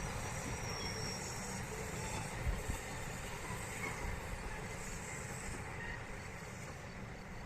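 Bernina Railway train running along the track, a steady low rumble that grows slightly fainter toward the end.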